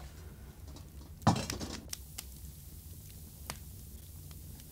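A few light clinks of a tea glass against its saucer, the loudest about a second in, then softer ones.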